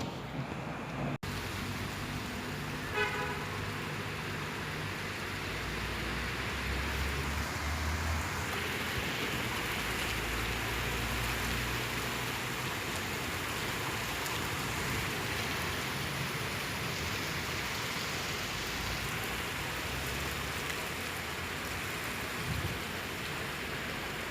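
Steady heavy rain falling during a thunderstorm, with a brief horn toot about three seconds in and a low rumble in the middle.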